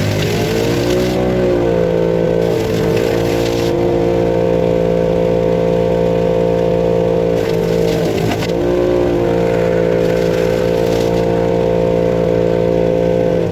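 Wood chipper engine running at full speed, its pitch sagging and recovering twice as it takes a load. Bursts of harsh crunching come from branches being chipped.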